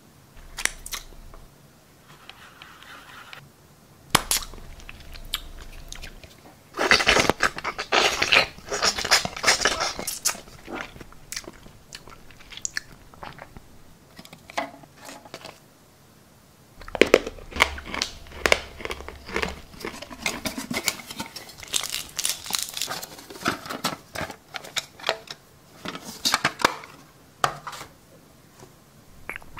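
Close-miked crunching and chewing, as of biting into something brittle, in two long bouts with scattered clicks and taps between.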